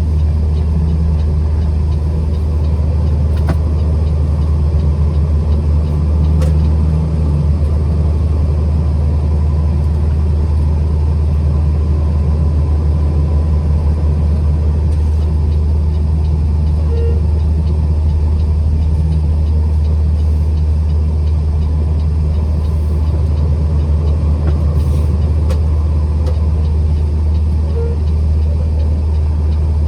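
Steady low drone of a truck being driven: engine and road noise running evenly, without gear changes or stops.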